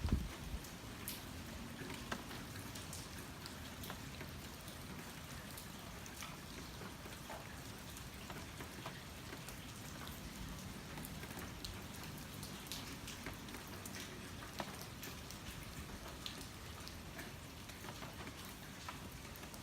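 Steady typhoon rain falling, with scattered sharp drop hits over the even hiss, and a single low thump right at the start.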